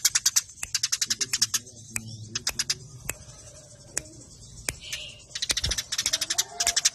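Eurasian tree sparrows chattering in a fight: fast runs of dry, high chips, a pause with scattered single chips in the middle, then another fast run near the end.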